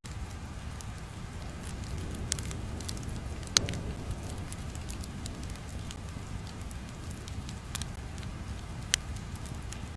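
Crackling ambience: a steady low rumble with scattered small crackles and two sharper pops, one about three and a half seconds in and one near the end.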